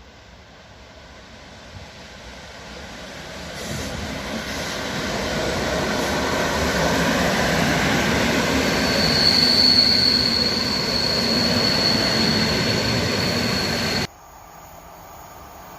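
A train running through on the rails, growing steadily louder as it approaches, with a high steady wheel squeal from about nine seconds in. The sound cuts off abruptly about a second before the end, leaving a much quieter rail sound.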